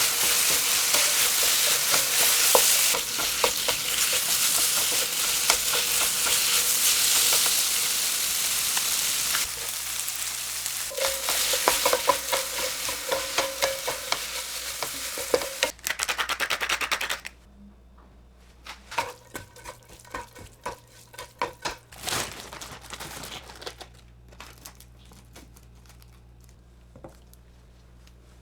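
Food sizzling in a hot frying pan while it is stirred, with many utensil clicks against the pan. The sizzling cuts off suddenly about two-thirds of the way through, leaving scattered light taps and clinks over a low, steady hum.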